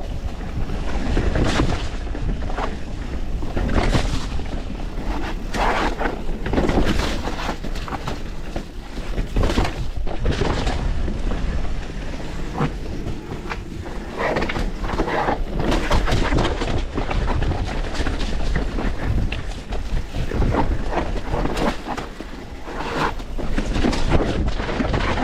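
Mountain bike descending a rough downhill trail, heard from a camera on the rider: tyres rumbling over dirt and rocks, with frequent irregular knocks and rattles from the bike, over a steady rush of wind on the microphone.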